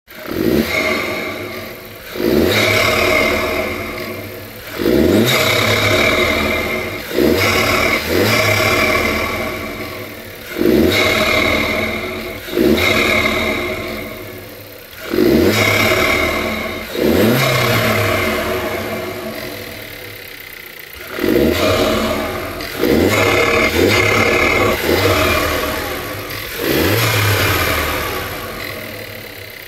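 Mk3 car engine with an air filter on its intake being blipped about a dozen times, each rev rising quickly and then falling back slowly to idle, with the intake noise loud on every rev.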